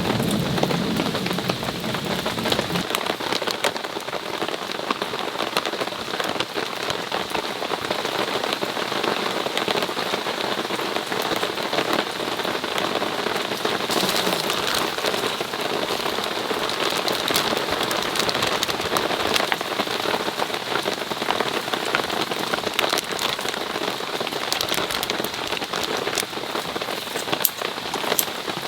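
Steady rain falling, with many close drops ticking and pattering on surfaces.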